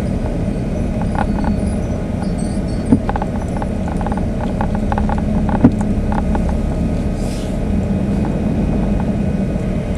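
Steady road and engine noise of a moving car, with a low hum and two sharp clicks, one about three seconds in and one a little past the middle.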